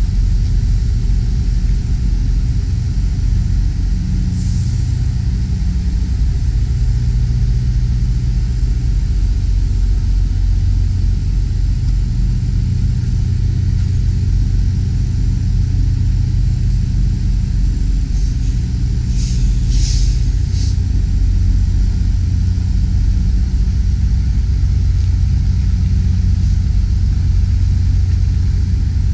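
Semi tractor's diesel engine running steadily at low revs while the rig is slowly backed, with a deep rumble. A few short high hisses come about two-thirds of the way through.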